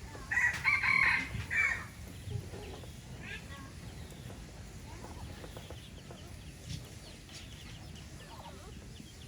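A rooster crowing once, a loud call lasting about a second and a half near the start, followed by fainter scattered calls.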